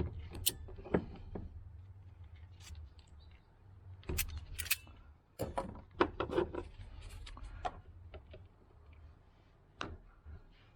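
Scattered sharp clicks and metallic snips of hand tools working at a fuel hose fitting on a car's fuel pump assembly, a cluster of the loudest ones about four to seven seconds in.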